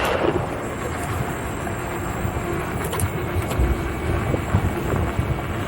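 Wind buffeting the microphone of a rider on an electric unicycle moving at speed: a steady, gusty rumble of wind noise.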